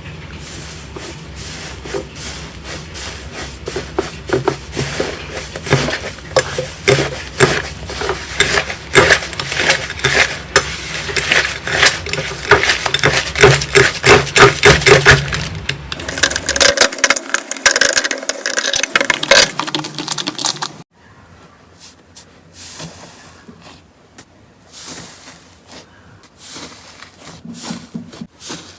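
Slime being squeezed and worked by hand, making rapid sticky clicks and pops. It turns much quieter about three-quarters of the way in.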